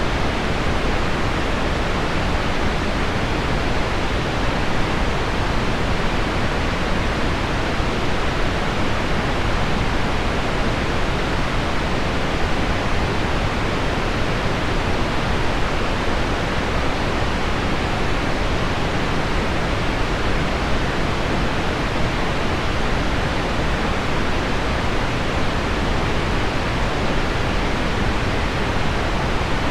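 Steady pink noise mixed with heavy rain on window glass, blended into one even, unbroken hiss with no single drops standing out.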